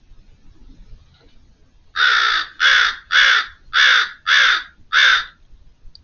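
American crow cawing, six harsh caws in quick, even succession.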